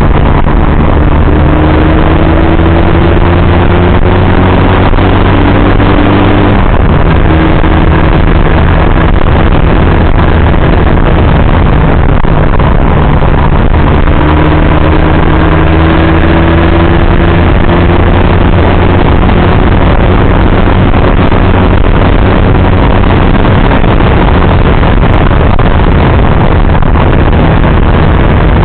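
Motorcycle engine and heavy wind noise on the camera while riding. The engine note climbs slowly, drops at a gear change about six and a half seconds in, then climbs again.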